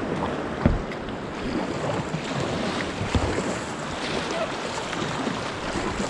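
Rushing whitewater around a kayak, a steady wash of water noise with wind on the microphone. It is broken by a few short low thumps, the strongest a little under a second in.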